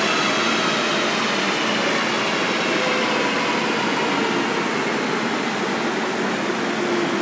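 2012 Mazda MX-5's four-cylinder engine and drivetrain on a Mustang chassis dyno winding down after a run: a slowly falling whine under a steady loud rushing noise.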